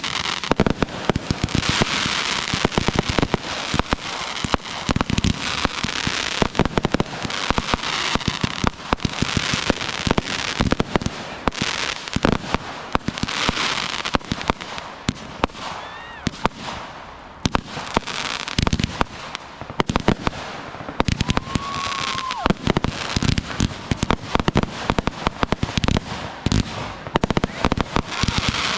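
Consumer fireworks going off one after another: many sharp bangs and pops with crackling and hiss between them, and a short whistle about three-quarters of the way through.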